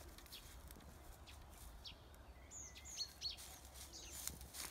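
Small birds chirping faintly: short, high chirps, several in quick succession in the second half, over a low steady background rumble.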